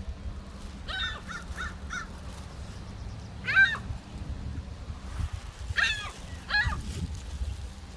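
Birds calling: a quick run of short calls about a second in, then a single loud call near the middle and two more near the end.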